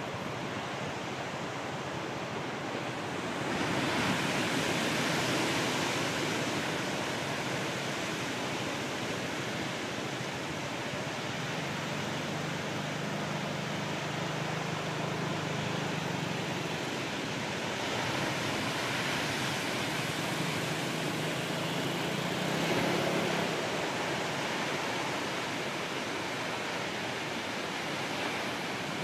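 Ocean surf breaking and washing on the shore as a steady rush of water noise, swelling louder about four seconds in and again a little after twenty seconds: a rough sea stirred up by a passing typhoon.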